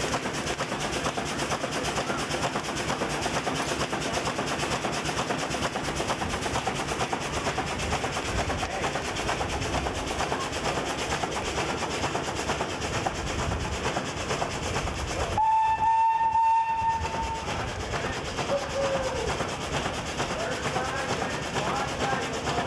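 1902 American LaFrance steam fire engine running under steam, its steam piston pump making a steady, dense hiss and rapid beat. A steam whistle sounds once, a steady tone lasting about a second and a half, about two thirds of the way through; it is the loudest sound.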